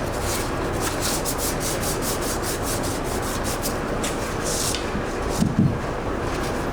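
500-grit sandpaper rubbed in quick repeated strokes over a primed steel wheel, knocking down dust nibs and high spots in the primer. A brief low sound comes about five and a half seconds in.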